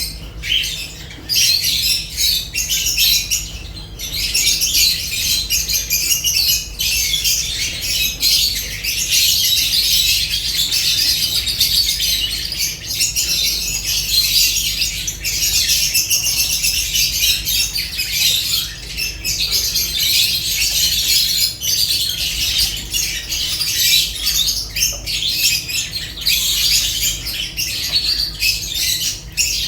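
Lovebirds chattering and squawking continuously, many shrill calls overlapping, with a low steady hum beneath.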